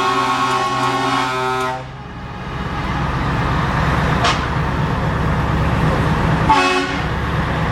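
Truck air horn sounding a long chord blast that cuts off about two seconds in, followed by a diesel truck engine pulling and rising in level, with a second short horn toot near the end.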